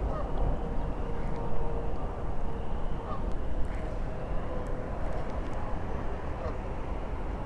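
Geese honking faintly, a few scattered short calls, over a steady low rumble.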